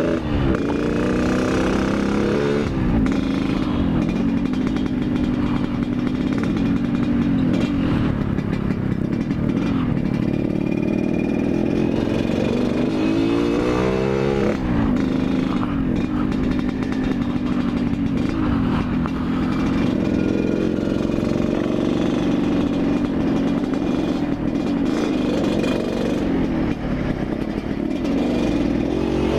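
Yamaha RX-King's two-stroke single-cylinder engine running under the rider, its pitch falling and rising as the bike slows, accelerates and shifts gears, with one steep climbing rev a little before halfway.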